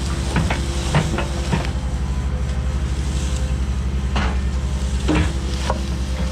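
Heavy-equipment diesel engine running steadily under load, with several sharp clunks of logs and steel: the ones about a second in and around four and five seconds in are the loudest.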